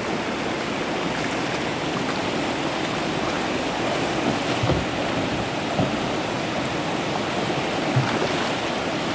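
River water rushing steadily, with a few brief low thumps a little after the middle and near the end.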